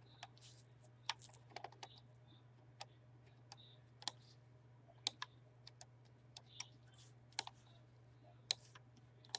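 Irregular, sparse clicking of a computer keyboard and mouse, about twenty sharp clicks over a faint steady low hum.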